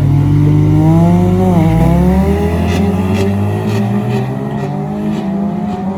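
Cars accelerating at full throttle in a street race. The engine pitch climbs, drops sharply at a gear change a little under two seconds in, then climbs again through the next gear.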